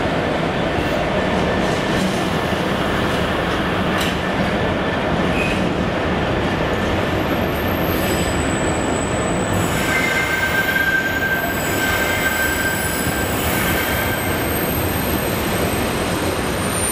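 Freightliner Class 66 diesel locomotive 66418 passing close by, followed by a long rake of container flat wagons rolling past with steady wheel-on-rail noise. From about ten seconds in, thin high wheel squeal rises over the rumble as the wagons take the curve.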